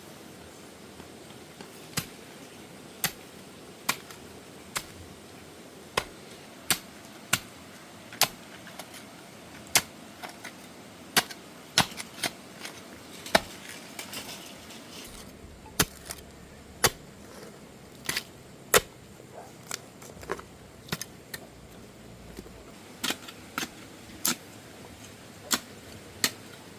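Sharp metallic taps or knocks, single strikes coming irregularly about once a second, of metal being struck.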